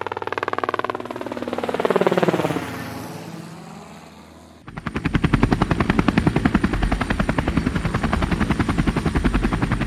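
Helicopter rotor chop as a helicopter flies past, the pitch sweeping down as it goes by and the sound fading away. Just under halfway through it cuts abruptly to a loud, steady, close rotor chop.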